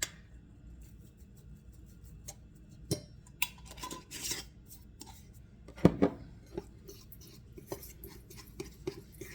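Clinks and knocks of kitchen utensils against dishes, scattered through, with one sharp knock about six seconds in.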